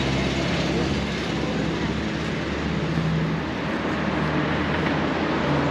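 City street traffic: a steady wash of road noise with the low hum of nearby engines.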